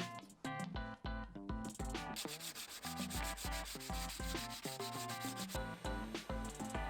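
Sanding of the dinghy's varnished surface: a rough scratching noise, densest from about two seconds in until past five seconds. It is heard over background music with a steady bass beat.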